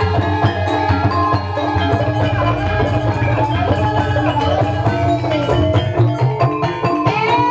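Ebeg accompaniment music played by a gamelan-style ensemble: ringing mallet-struck metallophones over drums, loud and continuous.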